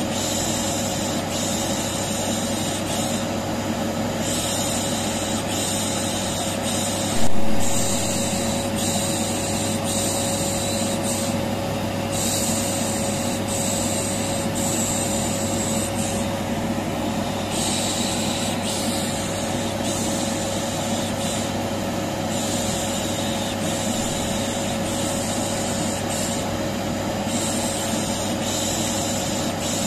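Vacuum cleaner running steadily with a constant hum, overlaid by a repeated 'shh' shushing hiss of the kind used to soothe a colicky baby. A single sharp loud knock about seven seconds in.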